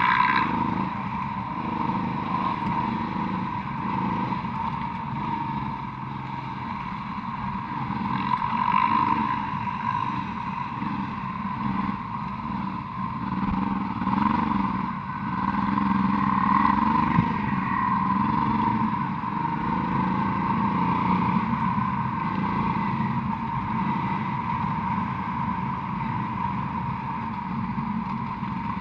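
Honda Transalp motorcycle being ridden, its engine running continuously with the pitch rising and falling as the throttle opens and closes.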